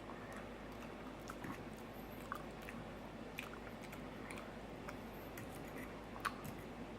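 A person chewing food: faint wet mouth clicks and smacks, with a few sharper clicks now and then.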